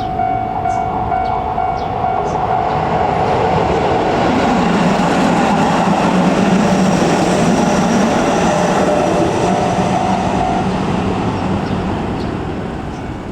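A Keisei electric commuter train passes over a level crossing, its running noise building to a peak midway and then easing off. A steady crossing warning-bell tone sounds at the start and again briefly near the end.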